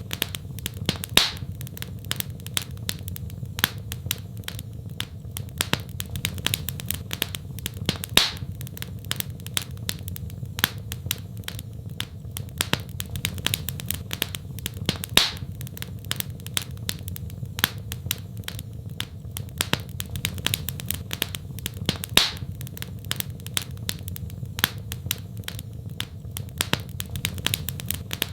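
Wood fire crackling in a fireplace: a constant run of small snaps with a louder pop every few seconds, over a steady low rumble.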